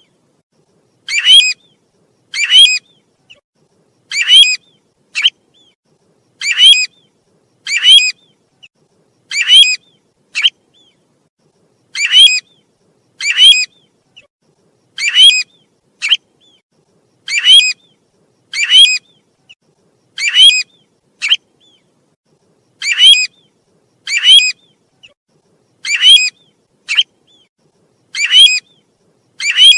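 Call of the bird known in Vietnamese as 'tu huýt', played as a bird-trapping lure: a short, loud call repeated at an even pace about every one to two seconds, sometimes followed by a brief extra note.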